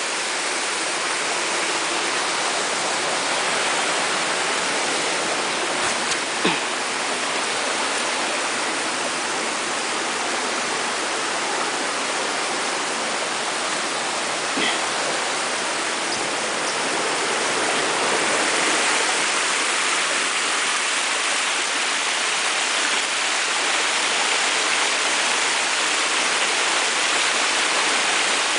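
Waterfall of about 80 metres falling onto rocks, heard up close as a loud, steady rush of water that swells slightly about two-thirds of the way through. Two brief knocks sound over it, one about six seconds in and a fainter one near the middle.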